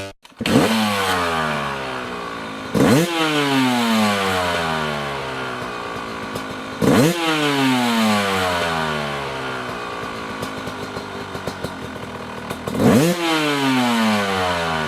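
2017 GasGas 300 two-stroke dirt bike engine revved hard four times, each sharp rise in pitch followed by a long falling drone over several seconds.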